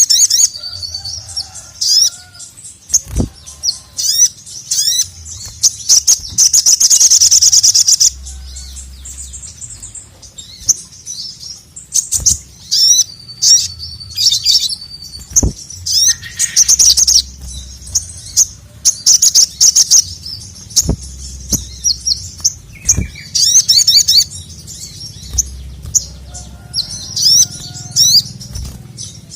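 Male sogon (little spiderhunter) calling loudly in quick, sharp, high chirps, in repeated bursts, with a long fast trill about six seconds in. A few sharp knocks are heard now and then.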